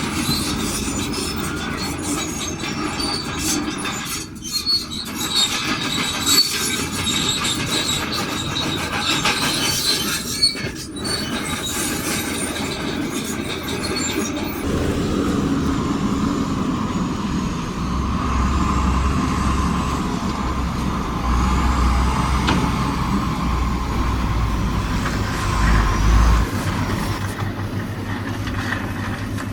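Crawler bulldozer at work: steel tracks squealing and clanking over the engine, with many small clicks. About halfway through it changes to steadier engine running with a deep rumble and a held whine.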